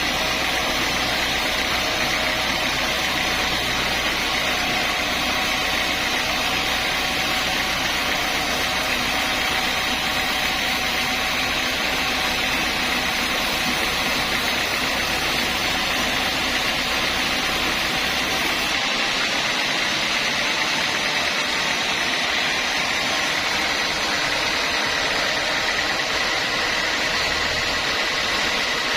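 Sawmill saw machinery running steadily, a dense mechanical noise with a steady high whine through it. About two-thirds of the way through, its low rumble drops away suddenly.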